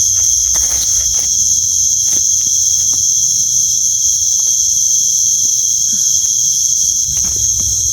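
Night insect chorus: a steady, loud, high-pitched shrill drone, with scattered faint clicks and rustles underneath.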